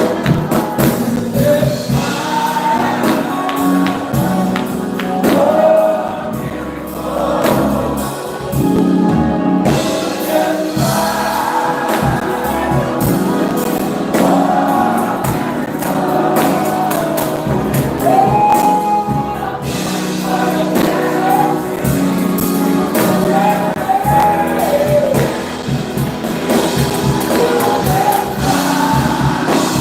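Gospel praise music: several voices singing together over instrumental accompaniment with steady percussion.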